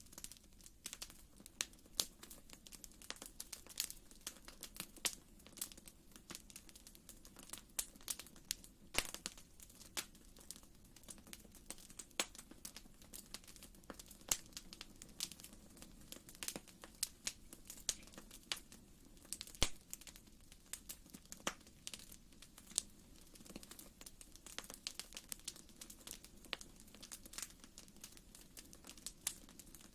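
Wood fire crackling in a fireplace: irregular small pops and snaps, several a second, over a faint steady low rumble.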